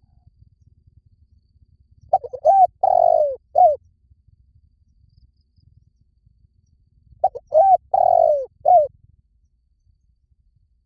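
Spotted dove cooing: two phrases about five seconds apart, each a few short coos with one longer drawn-out note near the middle.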